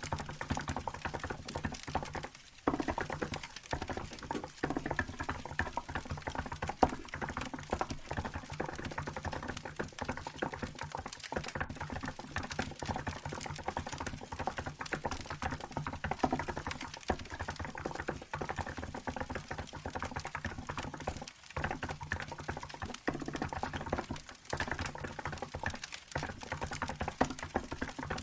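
Steady, fast typing on a Hansung GK868B mechanical keyboard with milk keycaps: a dense run of keystroke clacks, broken by a few brief pauses. A crackling wood fire sounds faintly behind it.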